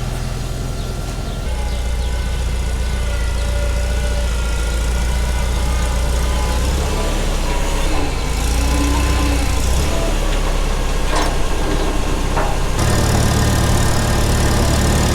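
Farmall Super C tractor's four-cylinder engine running steadily, its engine speed shifting up and down a few times.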